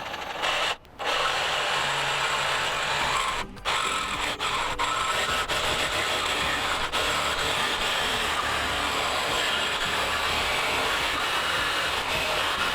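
Power saw cutting through a pipe, running steadily with two short pauses, about a second in and about three and a half seconds in.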